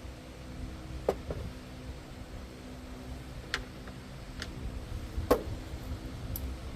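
Handful of sharp clicks and clinks of hand tools and metal parts, about six in all, the loudest a little past five seconds in, over a steady low hum.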